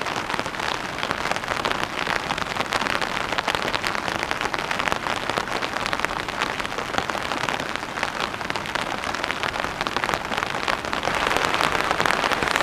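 Heavy rain falling steadily, a dense patter of many drops hitting surfaces.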